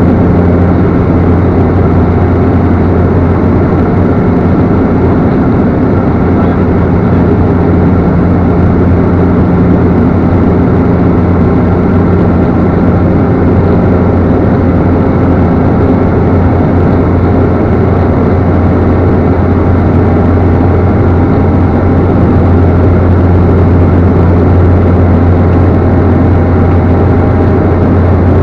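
Cessna Caravan's PT6A turboprop engine and propeller running steadily: a loud, even drone with a strong low hum that holds unchanged throughout.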